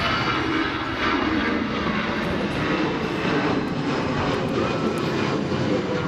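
Jet airliner's engines running loud and steady on or near the runway: a high whine over a deep rumble, with wind buffeting the microphone.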